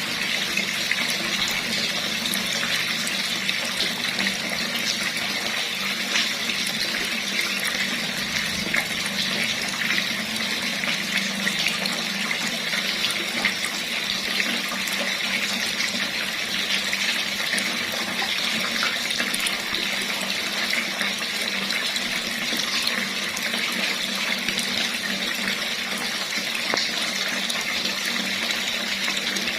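Water running steadily from a tap, a continuous even splashing rush.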